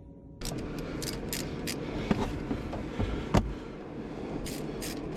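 Ratchet wrench being worked on a bolt, clicking in short strokes about three a second, in two runs with a pause between. A few sharp metal knocks fall in the middle.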